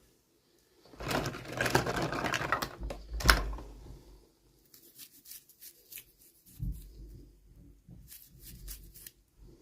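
Toy packaging being handled: about two seconds of dense rustling, a sharp click, then scattered light taps and soft knocks.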